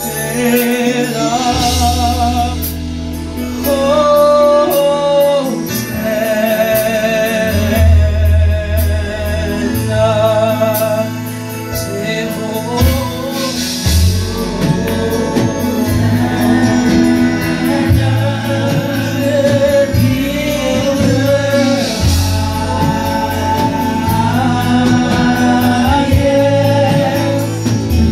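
Live gospel worship music: a worship team singing a melody over sustained bass and accompanying instruments, with cymbal wash.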